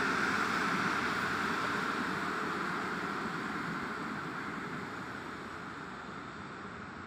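Passenger train hauled by an EP07 electric locomotive rolling through the station, its steady wheel and rail noise fading away.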